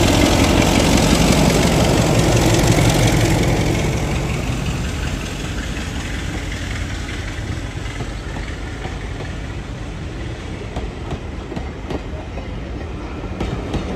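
A diesel locomotive's engine running as it passes close, loudest for the first few seconds and then falling away. Passenger coaches follow, rolling past with the wheels clicking over rail joints.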